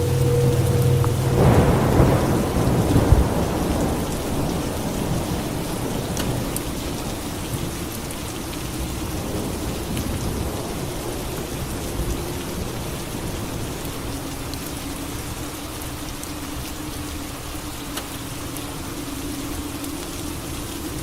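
Steady rain falling, with a thunderclap about two seconds in that rumbles away over the next few seconds.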